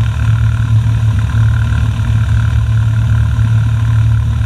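Cessna Skyhawk's piston engine idling on the ground, a steady low drone heard from inside the cockpit.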